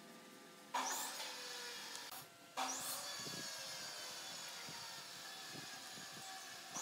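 Hand-pump pressure sprayer spraying liquid from its wand onto wood: a hiss that starts about a second in, stops for a moment after about two seconds, then starts again and holds steady.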